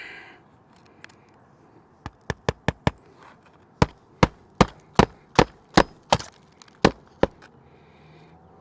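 Hammer driving a roofing nail into an old asphalt shingle on the roof deck: a quick run of light taps, then a string of heavier, evenly spaced blows, about two to three a second.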